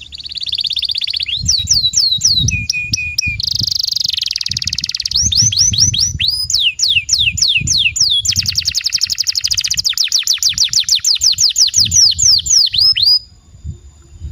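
Domestic canary singing a long song of rapid trills, a brief steady whistled note, and runs of quick falling whistles at several a second, stopping abruptly about 13 seconds in.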